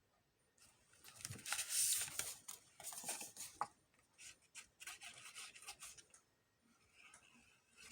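Paper rustling and rubbing in irregular strokes as paper pieces are handled and pressed down.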